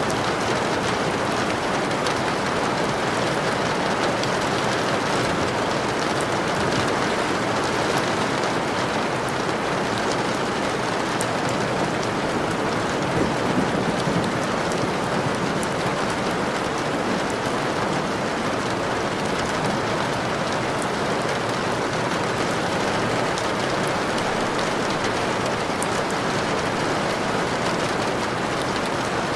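Steady rain falling, a continuous even hiss with the odd faint tick of drops.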